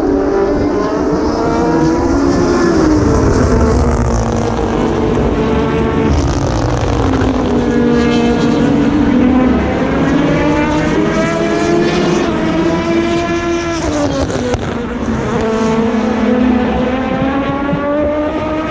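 Le Mans endurance race cars passing one after another through a corner, several engines overlapping. Their pitch drops repeatedly as they downshift, then climbs as they accelerate away.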